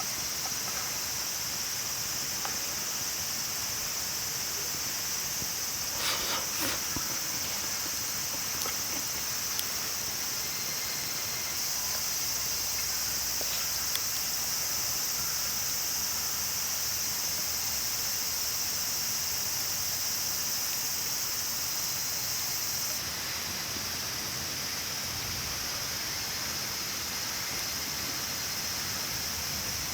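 A steady, high-pitched insect chorus, with a few short clicks about six seconds in and again near the middle.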